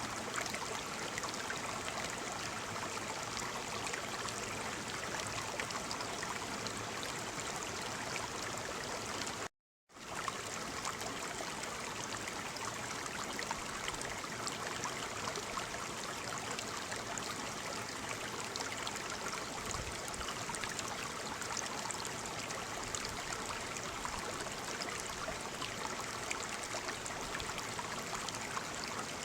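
Waterfall: a steady, even rush of falling water. About ten seconds in it cuts to silence for a split second, then fades back up.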